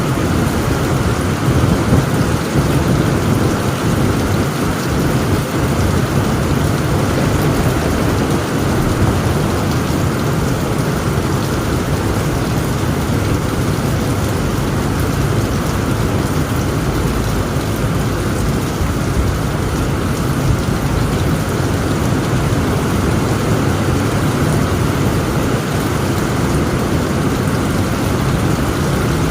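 Heavy rain drumming steadily on a tent roof, with a continuous low rumble of thunder underneath.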